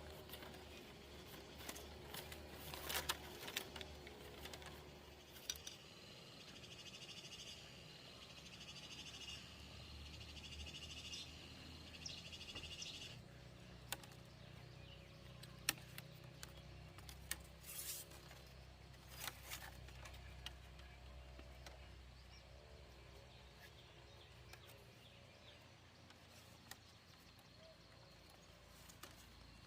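Quiet rural ambience with scattered light clicks and knocks. A steady high insect buzz sounds for several seconds and cuts off sharply about halfway through.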